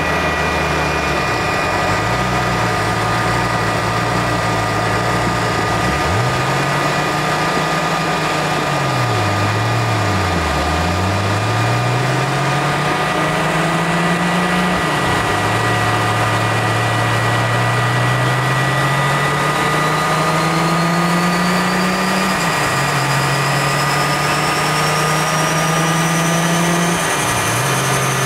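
Lexus SC300's stroked 3.4-litre turbocharged 2JZ-GTE straight-six running hard on a chassis dyno. Its note climbs in pitch and falls back sharply several times, gear change after gear change. A high whine rises steadily over the last third.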